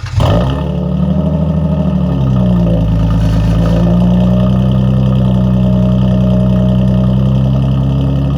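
Lexus IS300's inline-six catching on a cold start with a brief flare, then running at a loud, steady fast idle that settles slightly in pitch about two seconds in.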